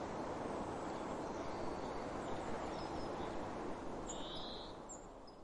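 Steady rush of running water with a few short bird calls over it, one clearer call about four seconds in; the whole sound fades out near the end.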